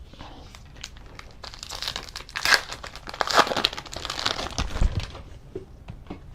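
Foil wrapper of a Donruss football card pack crinkling as it is torn open, a dense stretch of crackling in the middle that thins out near the end.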